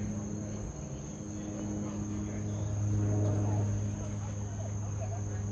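Cessna 208B Grand Caravan's Pratt & Whitney PT6A turboprop running with a steady low propeller drone, growing slightly louder about three seconds in. A constant high-pitched tone sits above it.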